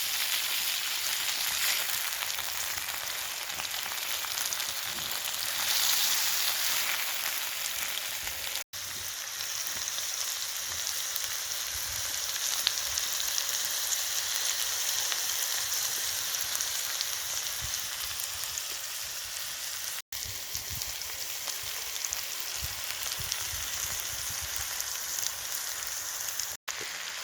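Steak, onions and peppers sizzling in a wrought iron skillet over a campfire, a steady frying hiss. The hiss is broken by three very short silent gaps.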